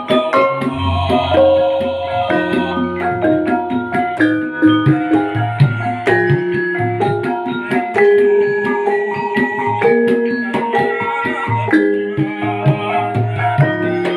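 Javanese gamelan-style ensemble playing: many mallet-struck, ringing pitched notes from metallophones over low hand-drum strokes, in a practice run of a piece.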